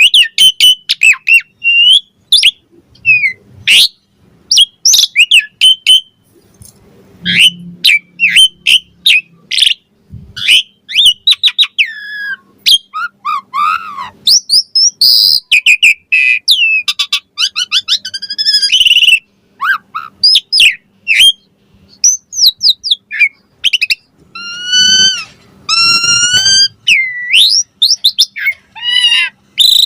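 Asian pied starling (jalak suren) singing a long, varied song: rapid strings of short whistles, chirps and gliding notes, with harsher, buzzier phrases mixed in.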